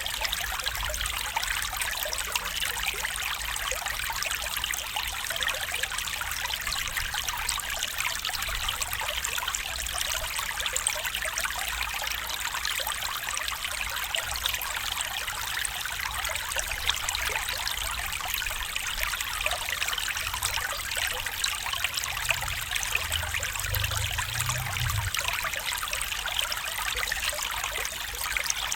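Stream water trickling and babbling steadily, with a faint low rumble for a few seconds near the end.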